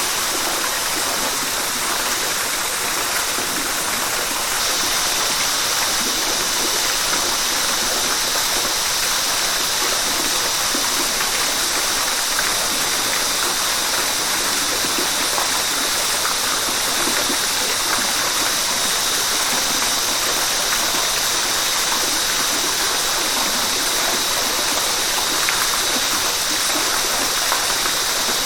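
River water rushing steadily. The hiss turns a little brighter about five seconds in and then holds.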